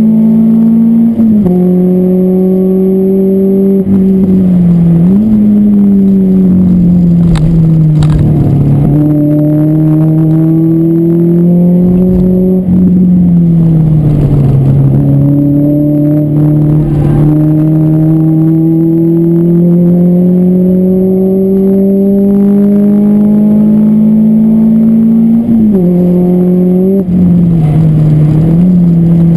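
Car engine heard from inside the car's stripped-out cabin, driven hard around a circuit. Its note climbs slowly for long stretches and drops in pitch several times, as the driver lifts off and changes gear.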